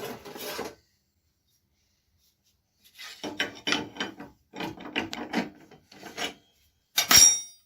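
Old 10-inch blade being taken off a table saw's arbor: a run of irregular scraping and rubbing clatters of metal parts, then one sharp metallic clank with a brief ring near the end.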